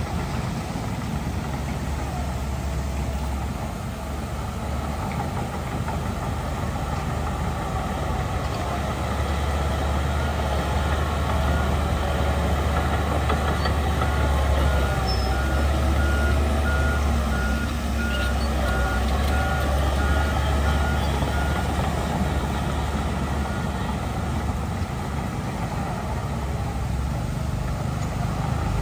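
Heavy diesel earthmoving machinery running steadily, with a deep rumble that swells through the middle. A reversing alarm beeps at an even pace for several seconds partway through.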